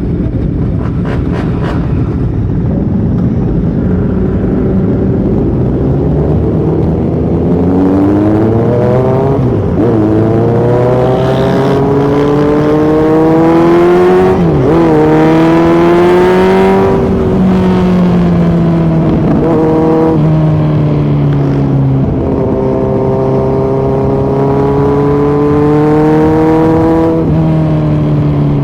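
2018 Kawasaki Z900's inline-four engine through a Yoshimura muffler and Delkevic headers with the dB killer removed, riding and accelerating. The engine note climbs in pitch and drops briefly at several gear changes, then holds and rises again.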